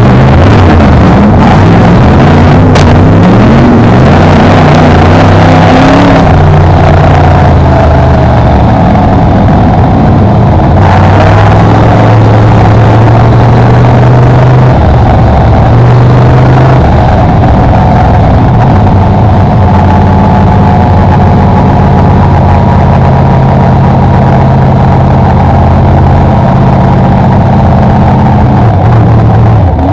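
On-board sound of a BriscaF1 stock car's V8 engine under racing load, very loud. The revs climb over the first few seconds, then hold steady, with a few brief lifts off the throttle, over constant wind and tyre noise.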